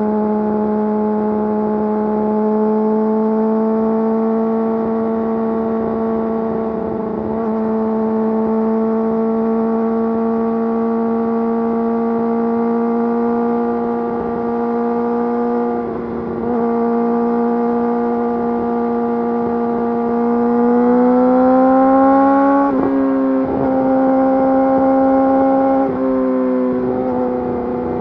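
Yamaha YZF-R6's inline-four engine through an Akrapovič full exhaust system, running at a steady, fairly high engine speed. About 21 seconds in the revs climb, then fall back with a few brief dips.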